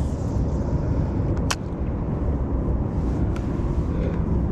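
Steady low rumble with one sharp click about a second and a half in.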